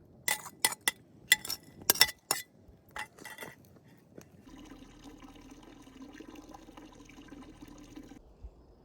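A quick run of sharp glassy clinks, then liquid poured steadily for about four seconds before it stops suddenly.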